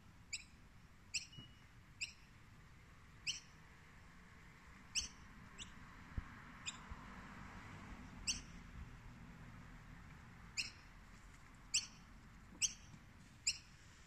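A bird giving short, sharp, high chirps, about a dozen of them spaced irregularly, each one a quick downward flick, over faint steady background noise.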